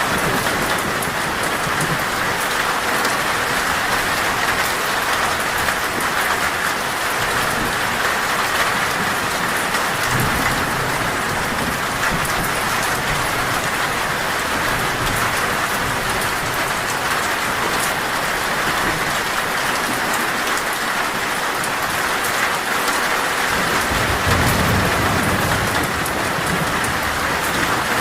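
Heavy, steady rain drumming on a metal roof, with low rumbles of thunder about ten seconds in and again near the end.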